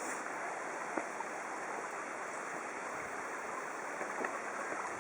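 Steady rush of a flowing stream, with a few faint ticks.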